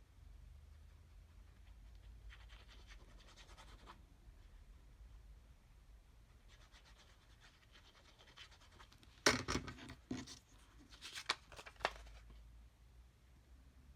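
Paper scraps being handled and rubbed down on a craft desk, faint and scratchy at first, then louder crinkling with several sharp clicks about nine to twelve seconds in.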